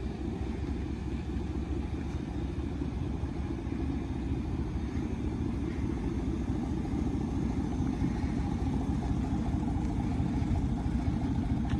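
Pickup truck's loud aftermarket exhaust running steadily at low revs, slowly getting a little louder.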